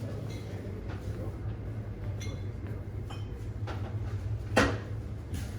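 A steady low hum with a few faint clicks, and one sharp clack about four and a half seconds in, like a door or cupboard knocking shut.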